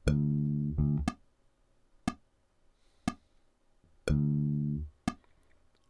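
Electric bass guitar playing a short exercise figure: a held low note followed by a short note, played twice about four seconds apart, with a sharp click about once a second keeping time.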